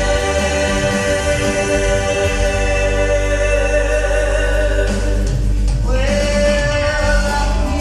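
Gospel vocal group singing together over a steady bass accompaniment, holding long notes, with a short break about five seconds in before a new held note.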